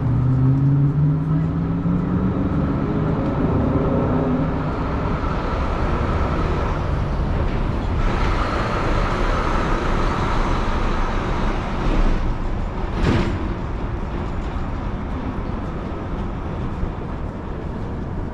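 Downtown street traffic: a vehicle's engine rising in pitch as it pulls away over the first few seconds, then the wash of passing cars, with one sharp knock about thirteen seconds in.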